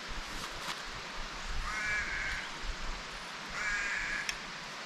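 A crow cawing twice, each call drawn out for about two-thirds of a second, nearly two seconds apart, over a steady background hiss.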